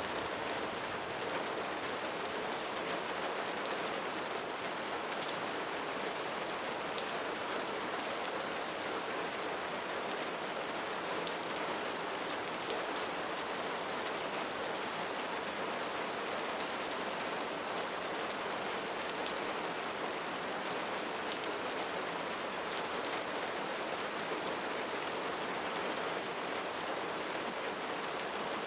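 Steady rain falling, an even wash of sound with many small drop hits and no change in strength.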